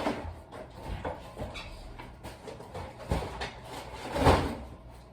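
Handling noises: scattered knocks and rustles of things being moved about, with a louder thump about three seconds in and another just after four seconds.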